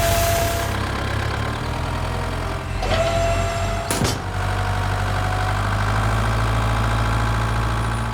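A mini construction machine's engine running steadily, with a thin whine at the start and again about three seconds in, and a short knock about four seconds in.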